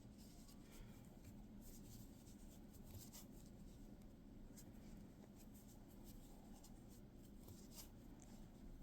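Faint, soft scratching and rustling of a crochet hook pulling chenille blanket yarn through stitches, with a few irregular light ticks over a low room hum.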